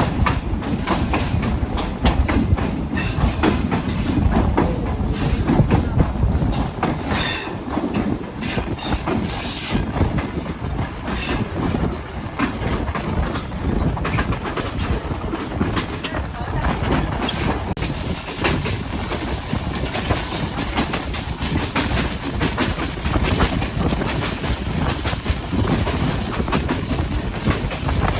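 Hazara Express passenger train running along the track, its wheels clattering steadily over the rail joints, with short high-pitched squeals in roughly the first third.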